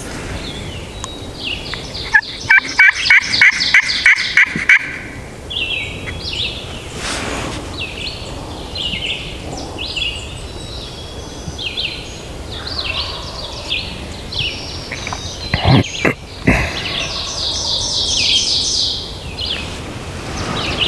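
Eastern wild turkey gobbler gobbling, a loud rapid rattling call about two seconds in, with songbirds chirping around it and a couple of sharp knocks later on.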